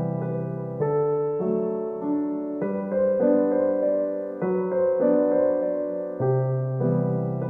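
Background piano music: a slow, gentle solo piano piece, with a new note or chord struck about every second or so.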